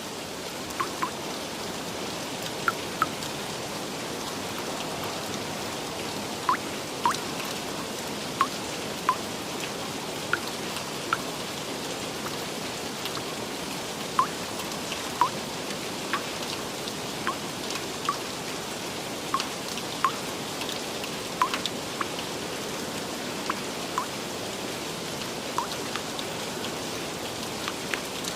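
Steady rain hiss with individual drops plinking irregularly, about one a second, as clear short drip sounds.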